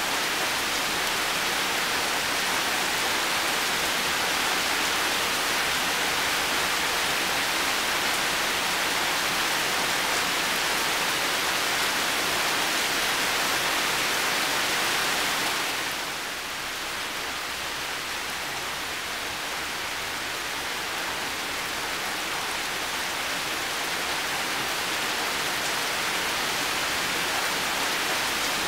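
Heavy rain falling in a steady hiss. It eases a little about halfway through, then builds back.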